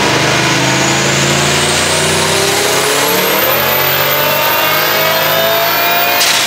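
Twin-turbo Lexus 1UZ V8 engine revving up hard, its pitch rising steadily with a high whine climbing alongside. A sudden burst of noise comes near the end.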